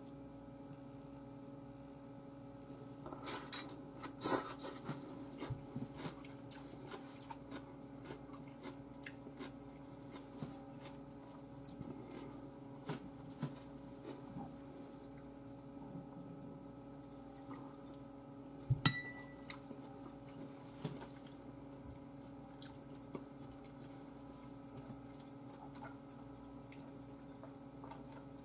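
Chewing food with scattered small clicks and taps of chopsticks and dishes over a steady low hum; a sharp clink with a brief ring about nineteen seconds in is the loudest sound.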